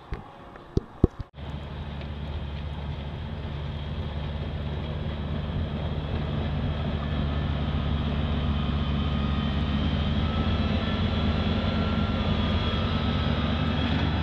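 A few sharp knocks, then a large vehicle engine running steadily with a low, even drone that grows slowly louder.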